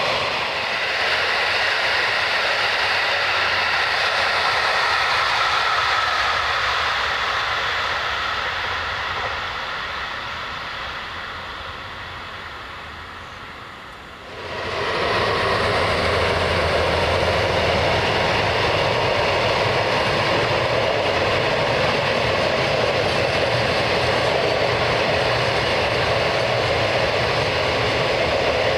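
Train running by, its noise slowly fading away, then suddenly loud again about halfway through and staying steady.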